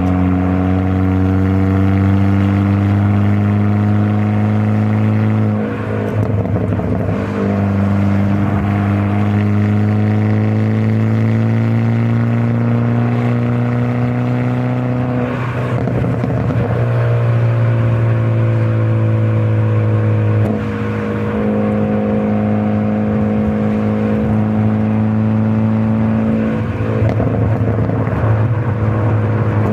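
Hyundai Avante N (Elantra N) 2.0-litre turbocharged four-cylinder engine and exhaust in N mode, pulling under load. Its note climbs slowly, and about four times a short rough break, where the pitch jumps, marks a gear change.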